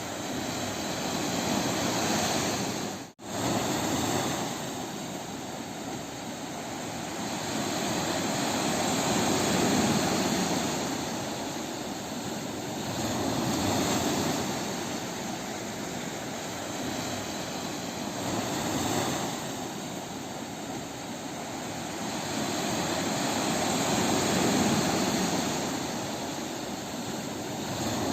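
Sea waves washing onto a beach, the surf swelling and easing every four to five seconds. The sound drops out for an instant about three seconds in.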